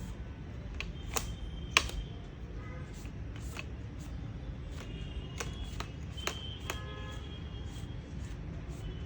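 Scattered light clicks and taps of the laptop's heatsink and parts being handled while dried thermal paste is wiped off, over a steady low hum.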